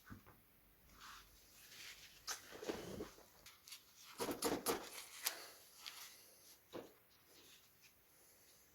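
Light clicks, taps and scraping of small parts and tools being handled on a workbench, with two busier bursts of rattling a couple of seconds in and past the middle.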